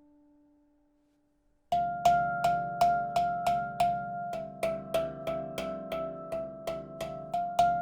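Stainless-steel D Cerridwen 17 handpan (Celtic Minor). After a near-silent pause of a little under two seconds, one note is struck again and again at about three strikes a second. Each strike rings with a higher overtone above the note.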